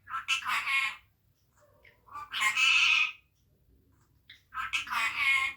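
Pet parrot giving three loud calls, each just under a second long and about two seconds apart.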